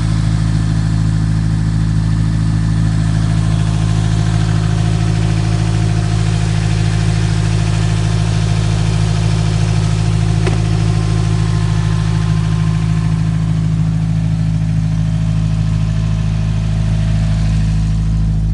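Subaru Legacy's boxer engine idling steadily at an even speed, with a single brief click about halfway through.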